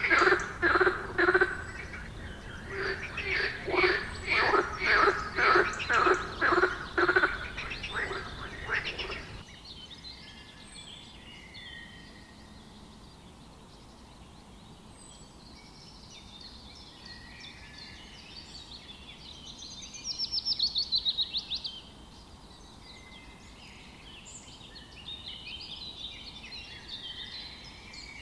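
A frog croaking in quick, evenly repeated pulsed calls, which stop abruptly about nine seconds in. Quieter birdsong follows, scattered high chirps with one loud fast trill about two-thirds of the way through.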